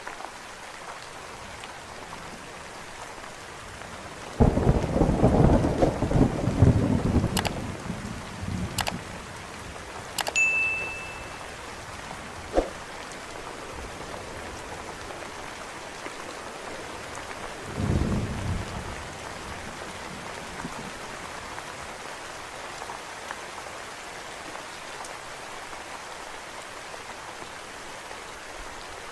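Steady rain falling, with a sudden loud thunderclap about four seconds in that rumbles on for several seconds, and a shorter, softer roll of thunder later. A few sharp clicks sound in between.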